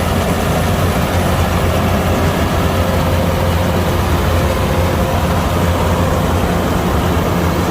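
Kubota DC-105X combine harvester running steadily: a loud, even engine drone with a strong low hum.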